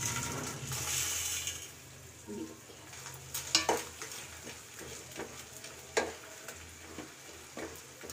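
Food sizzling in hot ghee in a kadhai as it is stirred with a spatula. The sizzle is strongest in the first second or so and then fades. The spatula clinks and scrapes against the pan a few times, most sharply about three and a half seconds in and again at six seconds.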